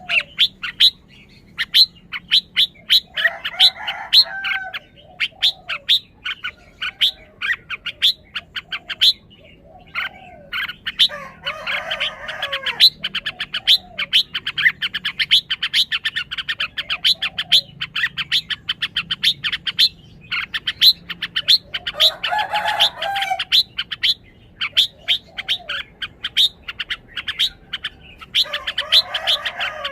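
Red-whiskered bulbul singing short warbling phrases every several seconds, over a steady run of quick, sharp chirps, several a second.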